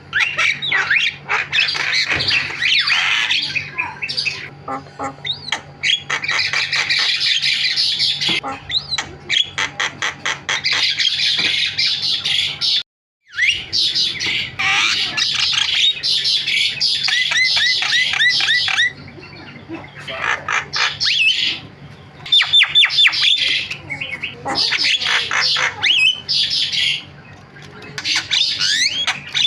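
Javan myna (jalak kebo) singing its loud, varied chattering song: harsh squawks, rapid clicking runs and short whistled notes, with a brief gap about thirteen seconds in.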